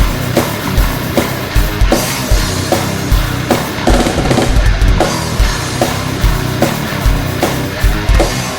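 Heavy metal song played on guitars, bass guitar and a drum kit, with kick-drum hits recurring throughout.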